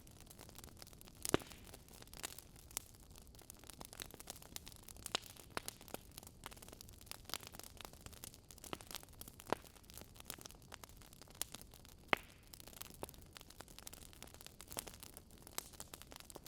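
Wood fire crackling, with irregular sharp pops from the burning logs over a soft steady hiss. Two pops stand out, about a second in and about twelve seconds in.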